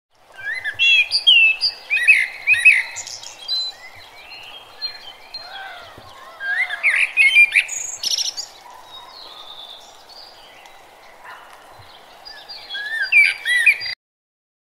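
Birds chirping and singing in several overlapping short, pitch-sliding calls, louder in three spells, over a faint steady background hiss; it cuts off suddenly near the end.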